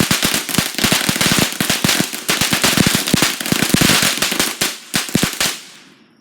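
Firecrackers going off in a rapid, dense string of sharp pops and crackles that thins out and stops about five and a half seconds in.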